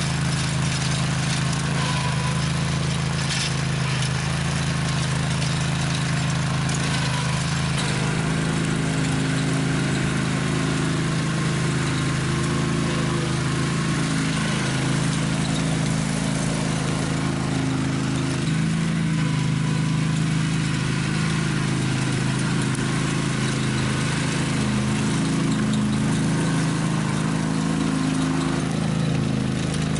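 Small gasoline engine running steadily, its pitch shifting slightly now and then.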